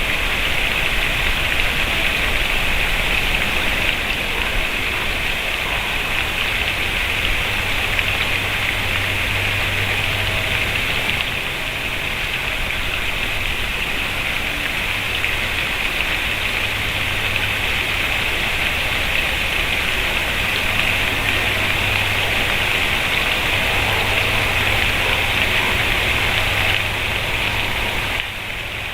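A steady, even hiss, rain-like, strongest in the upper-middle range, with no distinct calls or knocks standing out.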